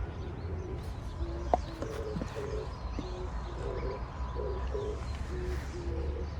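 Dove cooing: a run of short, low, hooting notes repeated over several seconds, starting about a second in, over a steady low rumble.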